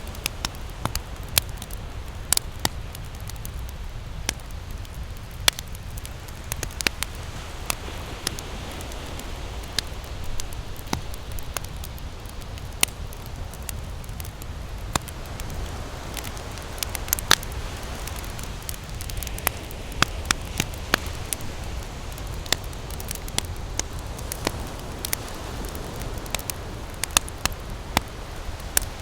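Wood campfire crackling, with irregular sharp pops and snaps several times a second, over a steady low rush of ocean waves.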